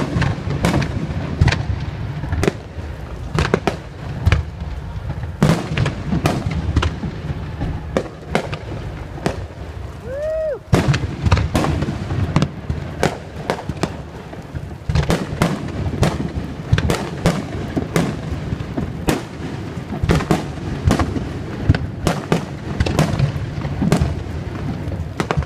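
Aerial fireworks display: a rapid, continuous barrage of bangs and booms. About ten seconds in, a short whistle rises and falls among the explosions.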